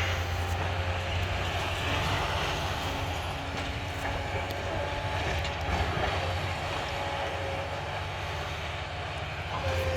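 Demolition excavator's diesel engine running steadily at a distance, a low drone with a faint steady whine over it.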